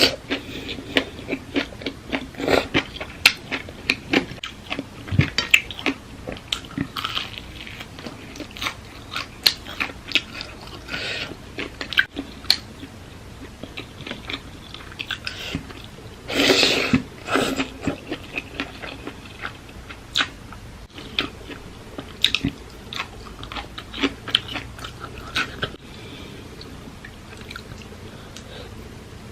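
A person chewing and biting crunchy food close to the microphone: a steady run of small wet crunches and clicks, with a louder, noisier bite or slurp about two-thirds of the way in.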